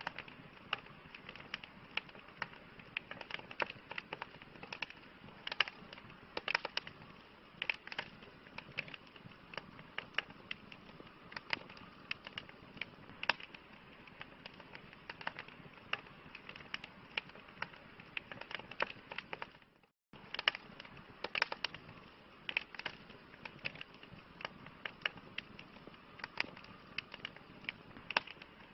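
Campfire crackling: frequent small pops and snaps, irregularly spaced, over a steady soft hiss. The sound cuts out for a split second about two-thirds of the way through.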